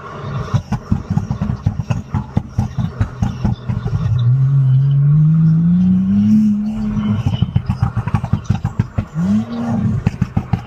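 BMW B58 turbocharged inline-six engine pulling hard, its note rising steadily for a couple of seconds about midway, then a short quick rev near the end, over a choppy rumble throughout.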